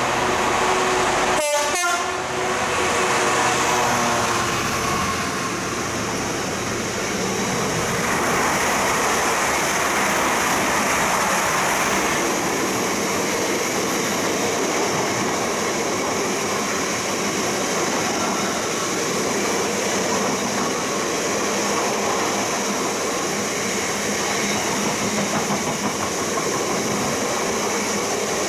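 Train running through a station on the Midland Main Line: a long, steady rush of wheel and body noise, with a few steady tones in the first few seconds.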